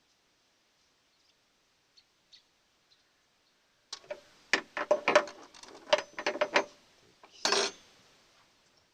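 Metal parts being handled: a few faint ticks, then about four seconds in a quick run of sharp metallic clicks and clinks lasting a few seconds, followed by a short scraping clatter.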